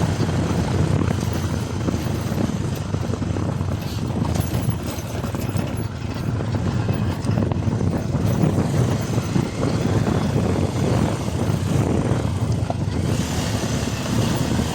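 Motorcycle running steadily along a road, its engine mixed with low wind rumble buffeting the microphone.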